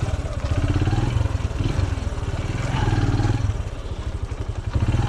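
Small engine of a farm vehicle running at low speed with a rapid, even pulse, swelling a little twice.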